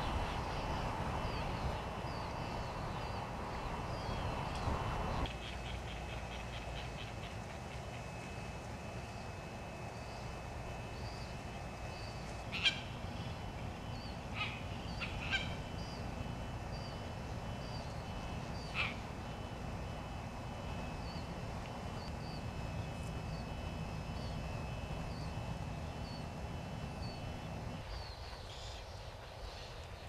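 Outdoor bird ambience: a steady background hiss that drops abruptly about five seconds in, with faint, repeated high chirps of distant birds. A few short, sharp calls stand out in the middle.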